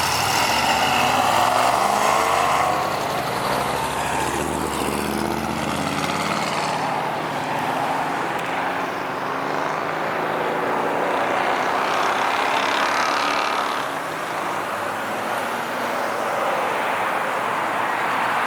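A car's engine revving hard and accelerating away. Its pitch shifts during the first few seconds, then a steady rush of engine and road noise continues.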